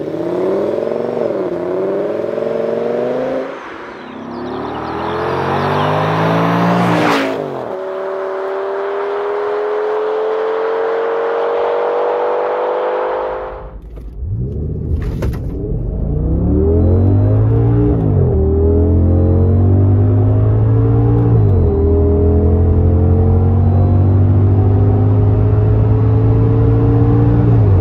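Audi S6's 5.2-litre naturally aspirated V10 revving under hard acceleration, the pitch climbing and dropping back at each upshift of the six-speed tiptronic. It is first heard from outside the car, then from inside the cabin with a deep boom, pulling through the gears from a standstill with upshifts about halfway through and again a few seconds later.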